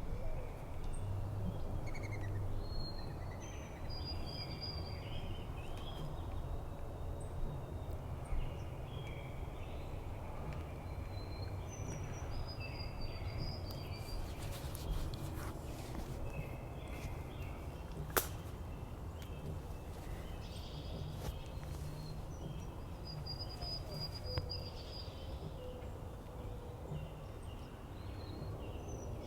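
Several small songbirds calling, with short high chirps and brief whistled notes scattered throughout, over a steady low background rumble. A single sharp click sounds about eighteen seconds in.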